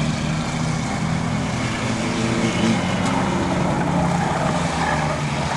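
Racing trucks' engines running at speed on the track, a steady drone with small shifts in pitch.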